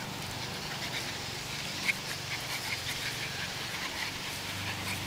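A dog making faint, brief sounds, the clearest about two seconds in, over a steady low hum.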